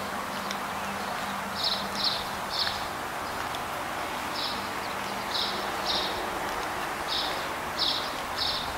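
A small bird chirping: short high notes in groups of two or three, about nine in all, over a steady outdoor background hiss.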